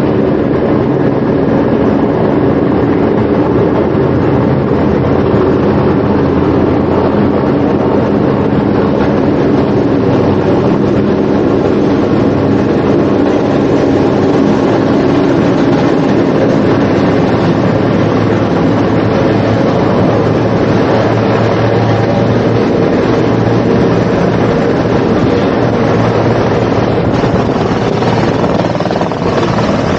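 Loud, steady machine drone with several steady hum tones under a broad rushing noise, unchanging throughout.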